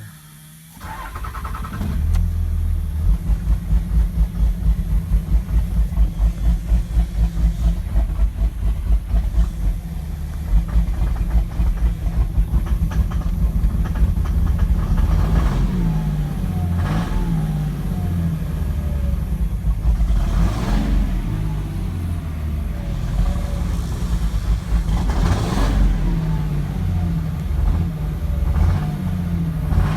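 2006 Cummins 5.9-litre inline-six turbo diesel starting about a second in, then idling roughly with a heavy rhythmic pulsing that later settles into an uneven lope. The owner suspects a bad injector, since the lope is not from a tune.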